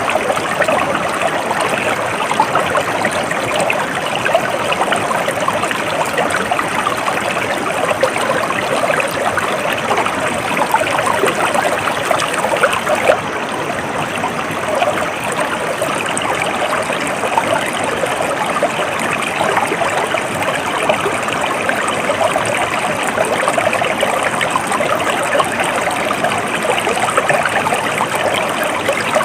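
Stream water flowing steadily, an even rushing with a fine, busy texture and no pauses.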